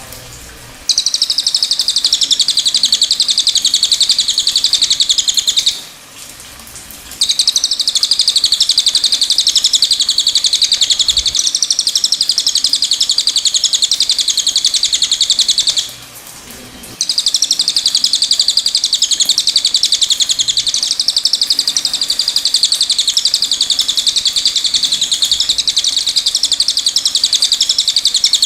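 Cililin songbird song: long, very rapid high-pitched trills, each running several seconds, in three bouts broken by short pauses.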